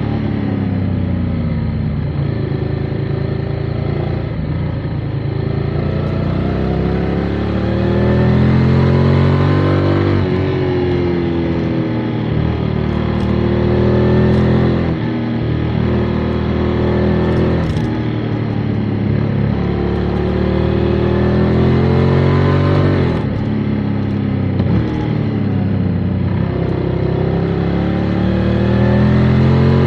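Motorcycle engine under way, its revs rising and falling repeatedly as the bike accelerates, shifts and eases off through the bends.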